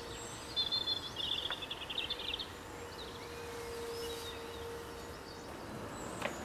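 Wild birds calling and singing outdoors, with a rapid trill in the first couple of seconds and a few short chirps later, over steady background noise and a faint steady hum.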